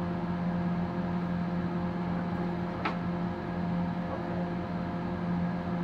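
Steady hum and whir of a running cryptocurrency mining rig's cooling fans, with a low drone and a few higher steady whining tones, and one brief click about three seconds in.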